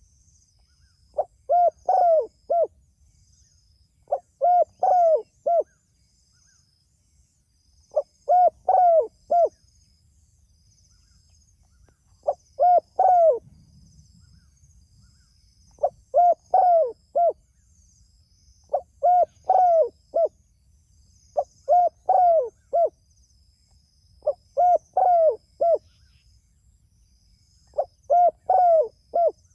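Spotted dove (tekukur) cooing repeatedly: short phrases of three or four low coo notes, nine phrases a few seconds apart.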